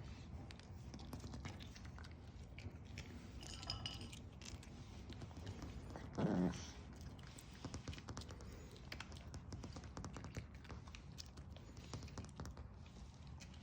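A small dog chewing dry kibble, with many small crunches and clicks of the pieces. About six seconds in comes one brief voiced sound.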